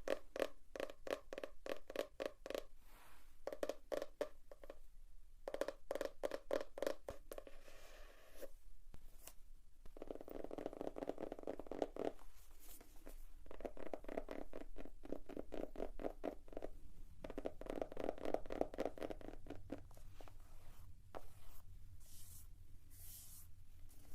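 Fingers tapping on notebook covers in fast runs of many quick taps, broken by short pauses. Near the end the tapping gives way to lighter scratching strokes across a cover.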